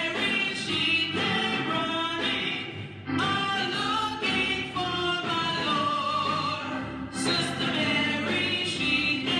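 Gospel music with singing over instrumental accompaniment, the voices holding long notes with vibrato.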